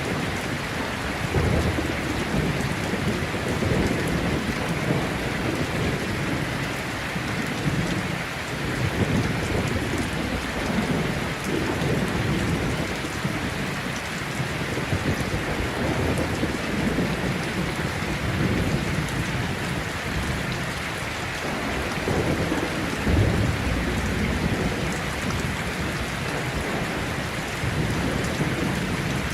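Rainstorm: steady heavy rain hissing down, with low rolling thunder that swells and fades several times, rumbling strongest about three quarters of the way through.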